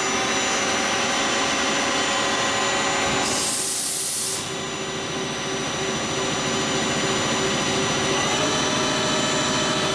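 Lucas 542B-84 horizontal boring mill spindle and gear drive running steadily at 800 RPM in high range, a steady whine of several tones. A short hiss comes about three and a half seconds in, and the pitch steps slightly higher after about eight seconds.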